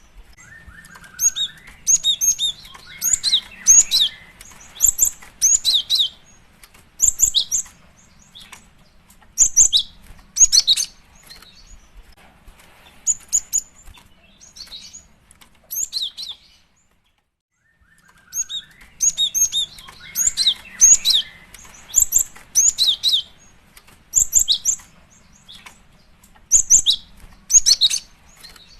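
Female gelatik batu (cinereous tit) calling: clusters of short, high-pitched chirps repeated about every second, with a brief pause about two-thirds of the way through. These are the calls a female uses to call a male, played as a lure.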